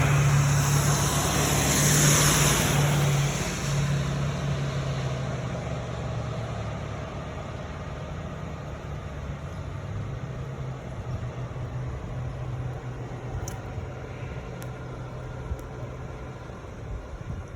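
A motor vehicle's engine running with a steady low hum that slowly fades, and a loud hiss of tyres or traffic at the start that dies away within the first few seconds.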